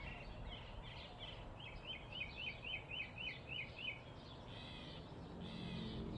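A bird calling: a quick run of short, repeated chirps, about four a second, over low background noise. Soft music comes in near the end.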